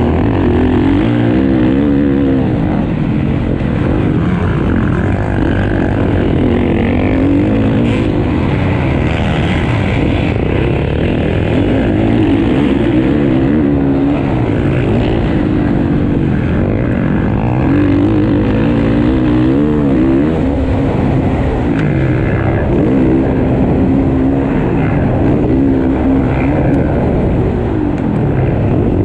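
Motocross bike engines revving loudly, their pitch climbing and dropping again and again as the riders work the throttle and shift through the race.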